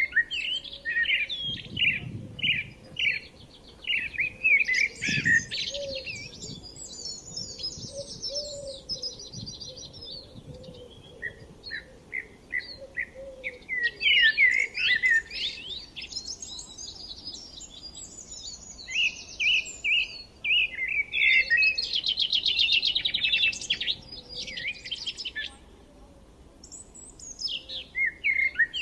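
Several songbirds singing and chirping in quick, overlapping phrases, with a dense buzzy trill about three-quarters of the way through.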